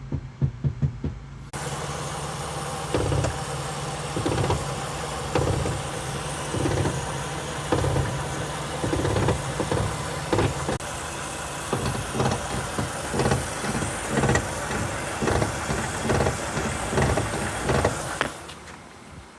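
A 1996 Mercury Sable running, with a low creak or knock repeating every second or so from the front suspension as the steering is worked, the creak that comes at the beginning of turning the wheel. A loud steady noise starts abruptly about a second and a half in and stops shortly before the end.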